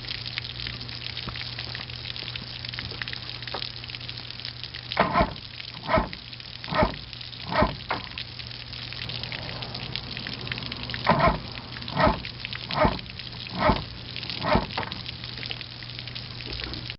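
1982 Mercury 40 hp two-stroke outboard running steadily after a starter brush repair, a low hum under a hiss like running water. A dog barks twice in short runs, four barks and then five, about a bark a second.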